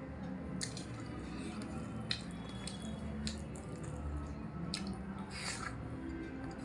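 Close-up chewing and wet mouth sounds of a person eating, with scattered short clicks throughout.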